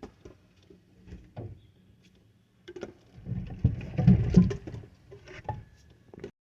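Scattered clicks and soft knocks, with a cluster of low thumps about three to four and a half seconds in: handling and movement noise.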